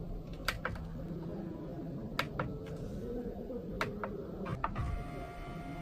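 Four pairs of sharp clicks, each pair quick, then a steady whine from a small electric motor starting near the end.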